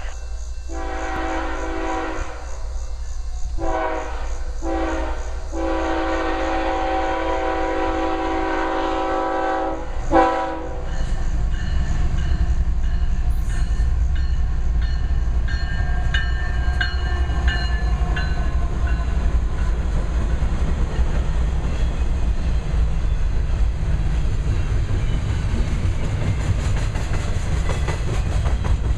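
Freight locomotive air horn sounding a series of blasts, several short breaks between them and a long final blast that ends with a sharp thump about ten seconds in. Then the loud, steady low rumble and wheel clatter of a double-stack intermodal train rolling past.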